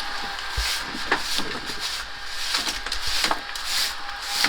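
A brush sweeping in repeated short scratchy strokes, about one every half second to second.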